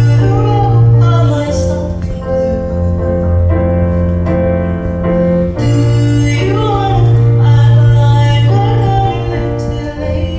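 A song performed live: a female voice sings over sustained accompaniment chords, which change every few seconds.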